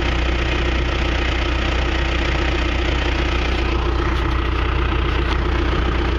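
John Deere 650J crawler dozer's diesel engine idling steadily.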